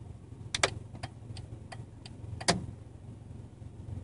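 A 1996 Honda Civic EX's 1.6-litre four-cylinder engine idling steadily, heard from inside the cabin as a low hum. Light clicks come about three a second, with louder ones about half a second in and two and a half seconds in.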